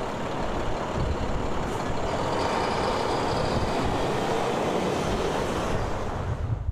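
A motor vehicle running, heard as a steady rushing noise that stops abruptly at the end.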